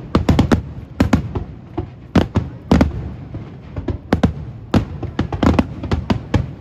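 Fireworks bursting overhead: a rapid, irregular string of sharp bangs, some coming in quick clusters of several within half a second.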